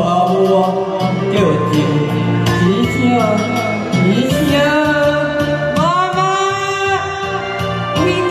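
A singer's voice over instrumental accompaniment, with a long held note about six seconds in.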